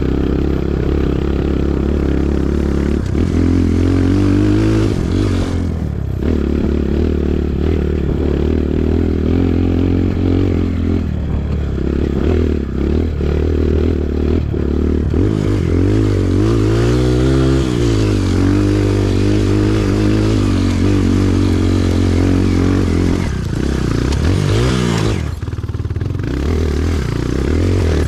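Kawasaki KLX140G dirt bike's single-cylinder four-stroke engine running under way, its pitch rising and falling repeatedly as the throttle opens and closes, with a brief dip near the end and occasional knocks.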